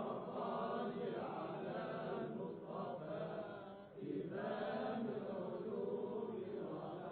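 Soft devotional chanting: low, drawn-out vocal notes without clear words, much quieter than the lead chanter's phrases, with a brief pause about four seconds in.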